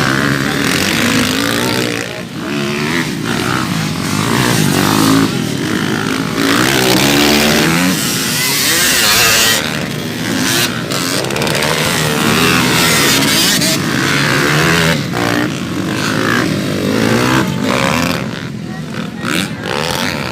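Motocross dirt bikes racing, several engines revving and changing pitch over one another, rising and falling again and again as the riders work the throttle and shift.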